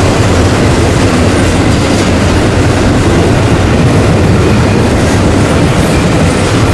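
Freight train rolling past, its steel wheels running on the rails in a loud, steady rumble.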